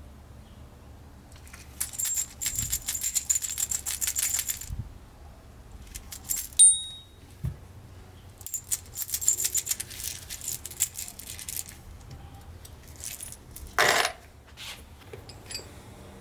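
Metal vise parts being handled: two stretches of rapid, irregular metallic clicking and rattling, with a single bright ringing clink of metal on metal in between. Near the end comes one short, louder scrape-like burst.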